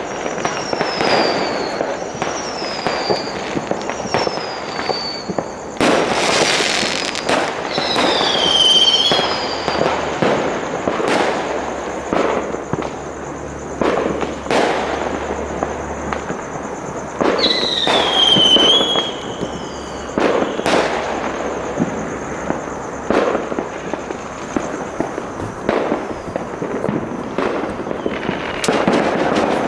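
Many fireworks going off around the area at once, with frequent bangs over a steady crackle. Several whistles fall in pitch: four short ones in quick succession at the start, and longer ones about a third and about three fifths of the way in.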